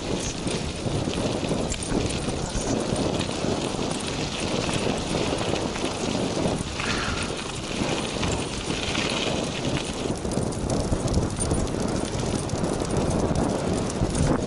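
Three Eurohounds running in harness and pulling a sulky: a fast, steady patter of paw footfalls mixed with the sulky's wheels rolling and rattling.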